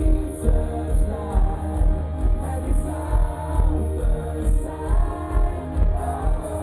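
A live pop band plays through a concert sound system, with a steady kick drum about two beats a second under singing.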